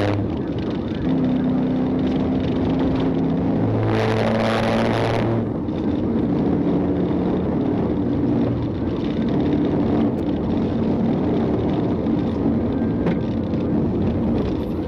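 Dodge Charger pursuit car's Hemi V8 running hard at speed over steady road noise, its engine note stepping up and down in pitch several times, with a brief louder rush about four seconds in.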